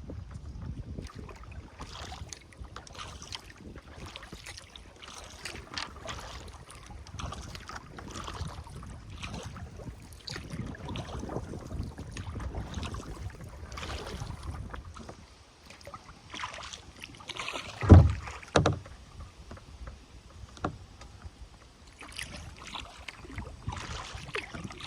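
Kayak paddle strokes dipping and splashing in the river in a repeating rhythm, with water running along the hull. Two loud low knocks sound close together about three-quarters of the way through.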